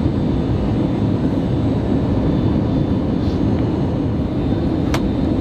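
Steady engine and airflow noise heard inside the cabin of an Airbus A321neo, with a single sharp click near the end.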